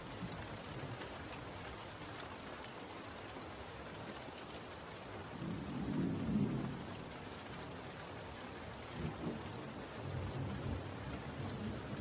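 Steady rain falling, with a low roll of thunder swelling about halfway through and fainter rumbles near the end.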